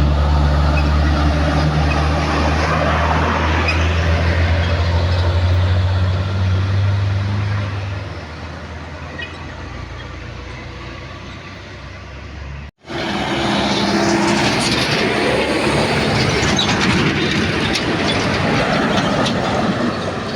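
Heavy truck's diesel engine running with a strong, steady low drone that fades about eight seconds in. After an abrupt break about thirteen seconds in, a louder, rough, even noise of engine and road takes over.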